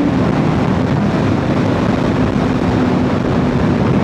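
Wind rushing over the microphone of a moving motorcycle, with a steady engine hum underneath.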